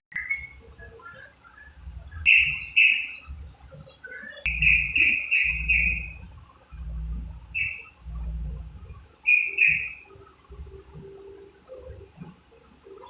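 Yellow-vented bulbul (trucukan) giving short, bright chirping calls in groups, including a quick run of four notes near the middle. Bursts of low rumble sound underneath the calls.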